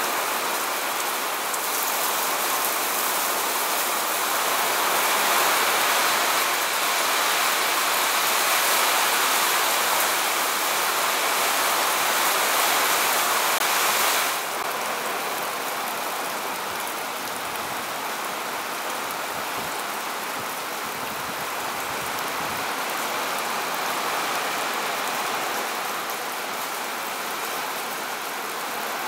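Heavy rain falling steadily on grass and trees, a dense, even hiss. About halfway through it suddenly becomes a little quieter, then carries on just as steadily.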